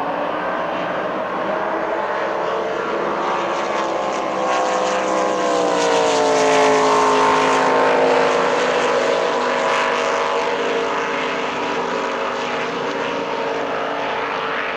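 Racing powerboat engine running hard as the boat passes by: it grows louder to a peak about seven seconds in, its note falling as it goes past, then it fades slightly.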